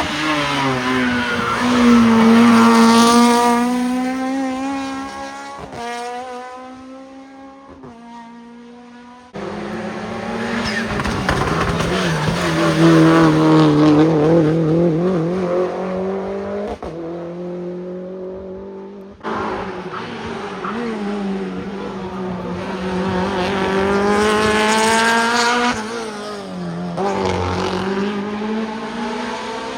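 Hill-climb racing cars at full throttle, engines revving up and down through the gears as each car passes. Three passes follow one another, each starting and cutting off abruptly.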